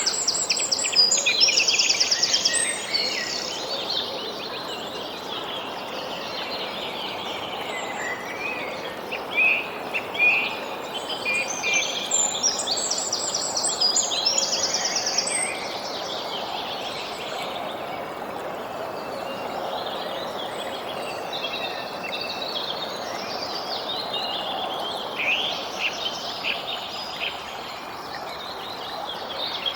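Several songbirds chirping and singing, with bursts of rapid trills near the start and again around the middle, over a steady rushing background noise.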